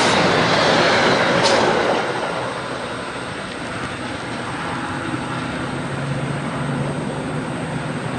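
Passenger train passing close by at speed, a loud rushing rumble of wheels on rail with a sharp click about a second and a half in. About two seconds in the last car clears and the noise falls to a quieter, steady rumble as the train pulls away.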